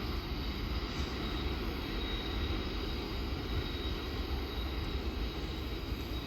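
Train running with a steady low rumble and a faint steady high whine over it.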